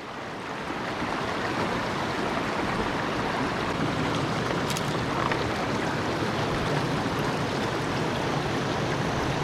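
River water rushing over rocky shoals: a steady, even rush of moving water.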